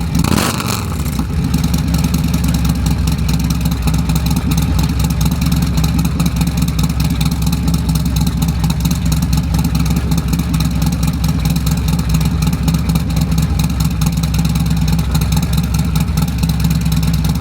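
Harley-Davidson Milwaukee-Eight 114 V-twin with a Screaming Eagle 447 torque cam, breathing through a D&D Billet Cat exhaust. It settles from a rev back to idle in the first second, then idles steadily in rapid even pulses.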